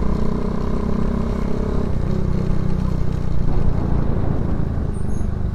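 Motorcycle engine running as the bike rides along a street; the engine note drops about two seconds in.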